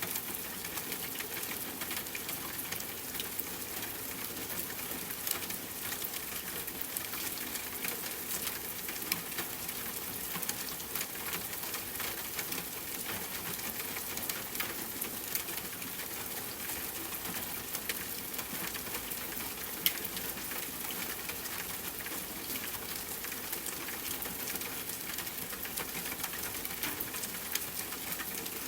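Steady rain falling, a dense patter of drops mixed with scattered sharp crackles from a campfire. One louder pop comes about twenty seconds in.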